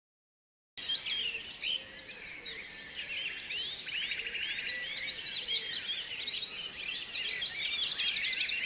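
Many small birds chirping, whistling and trilling at once in a dense chorus of overlapping high calls, starting suddenly about a second in.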